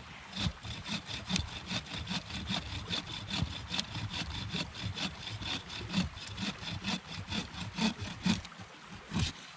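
Hand saw cutting through wood for firewood, in quick back-and-forth strokes about four a second. The strokes stop near the end, with one last stroke just after.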